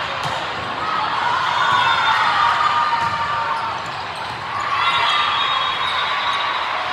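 Indoor court game noise in a large hall: a ball bouncing or being struck, with crowd noise around it.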